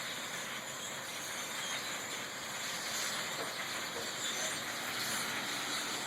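A large flock of birds calling all at once, a dense, steady chatter with no single call standing out.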